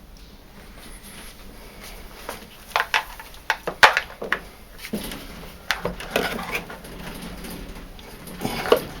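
Scattered clicks and knocks of hands working on the parts of a tumble dryer being taken apart, starting after a quiet couple of seconds.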